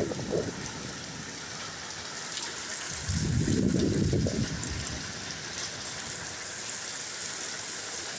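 Heavy rain falling steadily as a dense hiss. About three seconds in, a louder low rumble swells for a second and a half, then dies back.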